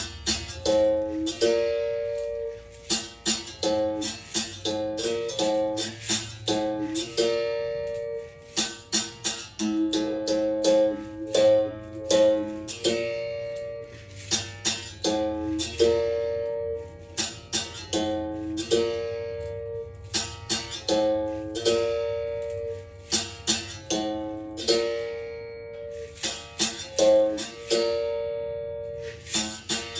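Berimbau played solo: its steel string struck with a stick in a repeating rhythm, switching between two or three notes, each strike ringing and fading.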